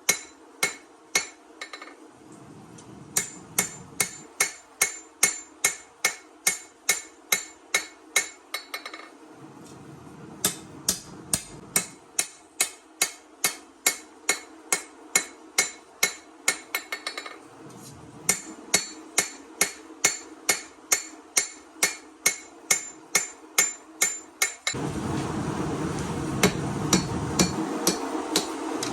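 Hand hammer forging a steel chef-knife blank on an anvil: sharp, ringing blows in a fast even rhythm of about two to three a second, with two short pauses, over a steady hum. Near the end a louder steady rushing noise comes in under the blows.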